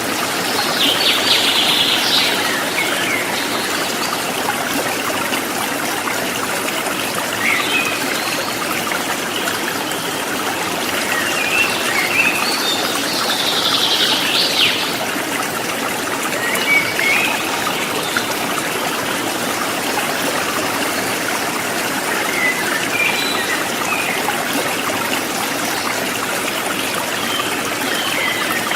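River water rushing and trickling over rocks, a steady flow, with birds chirping now and then over it: a burst of song about a second in, another around the middle, and scattered short chirps.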